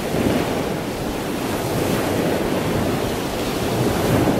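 Steady rushing water noise, a constant wash with no separate events.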